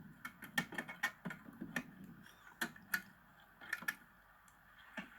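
Irregular sharp cracks and snaps, some in quick clusters, as rotten wood is broken and pulled out of a cabin door frame.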